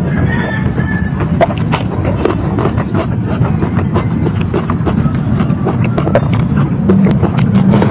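Close-miked eating sounds: chewing and crunching with many small, irregular clicks and smacks over a steady low rumble.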